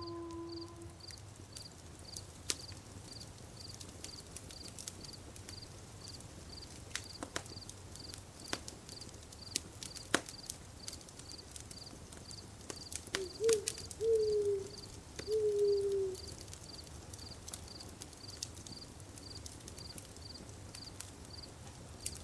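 Campfire crackling, with scattered sharp pops of burning wood. An insect chirps steadily about twice a second. About halfway through, an animal gives three short falling calls.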